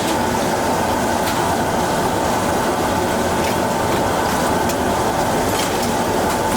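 Steady, loud mechanical roar of a commercial kitchen, with a constant hum-like tone and a few faint clinks of cookware.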